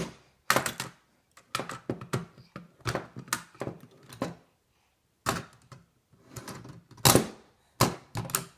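Toy car being handled and taken apart: irregular clicks and knocks of its parts, with a short pause midway and a louder knock about seven seconds in.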